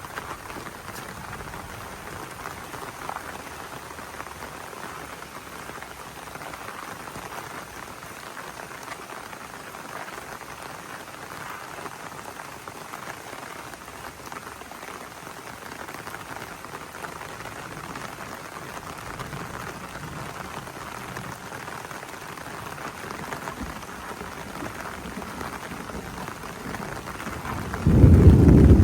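Heavy rain falling steadily. Near the end a loud, deep clap of thunder breaks in suddenly.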